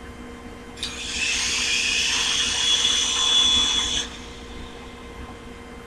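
Small electric motor and rotor of a modified toy helicopter whirring in a high-pitched whine. It starts with a click about a second in, runs for about three seconds and cuts off suddenly.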